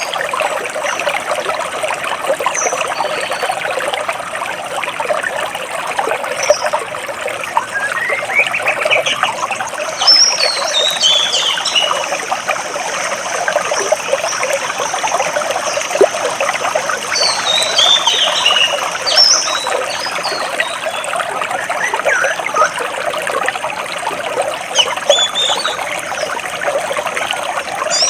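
Water flowing and trickling between large rocks, a steady babbling. Birds chirp over it now and then, including a few quick descending runs of chirps.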